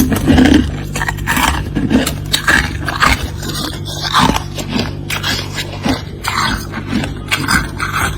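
Freezer frost being scraped and crunched in a run of short, irregular strokes, over a steady low hum.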